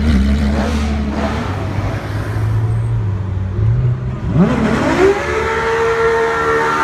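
Ferrari LaFerrari's V12 engine running at low revs, then revved hard about four seconds in, its pitch climbing quickly and holding high and steady.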